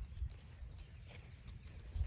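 Footsteps walking on a forest trail, heard as dull low thuds, with heavier ones a moment in and near the end.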